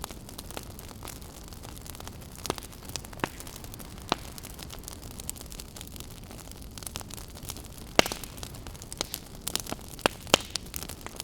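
Wood campfire crackling, with sharp pops scattered through it and the loudest snap about eight seconds in, over a steady low rush of ocean surf.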